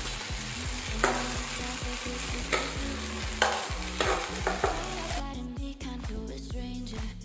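Food frying in hot oil in a pan, sizzling, while a utensil stirs and knocks against the pan several times. The sizzling cuts off about five seconds in.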